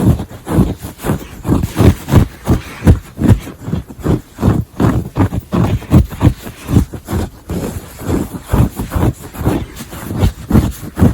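Rapid scratching strokes on a textile surface right at the microphone, about three strokes a second in an uneven rhythm.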